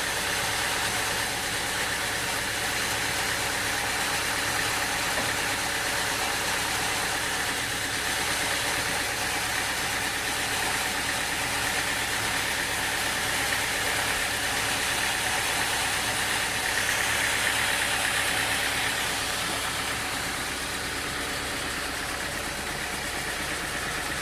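Sawmill engine running steadily, a bit louder for a moment about two-thirds of the way through.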